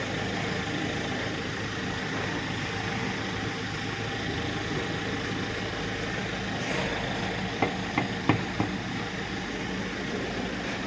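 An engine idling steadily, with four short sharp clicks or knocks about eight seconds in.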